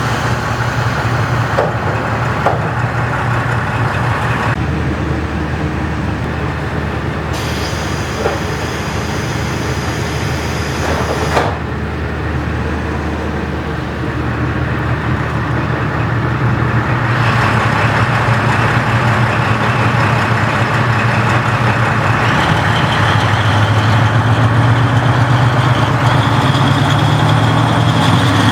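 Diesel engine of a KiHa 40-series railcar, still fitted with its original engine, running with a steady hum, with a few light clicks in the first half. About two-thirds of the way through it grows louder and its note climbs slowly, as the engine takes power.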